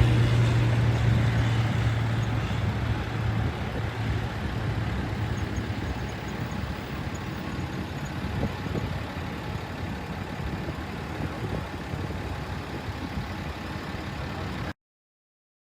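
Military jet engine noise fading steadily as the aircraft flies away after a pass, a broad rushing sound that cuts off suddenly near the end.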